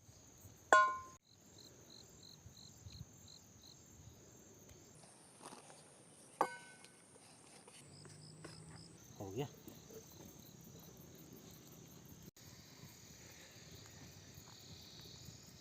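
Crickets and other insects chirping steadily, with a short sharp ringing sound about a second in and another near the middle.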